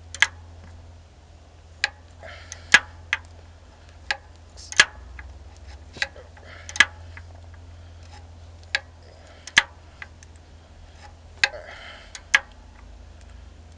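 Sharp metallic clicks, about a dozen, many in pairs roughly a second apart, with brief scraping between some of them, from a wrench working the 5/8 clutch adjusting bolt on a semi truck. A low steady hum runs underneath.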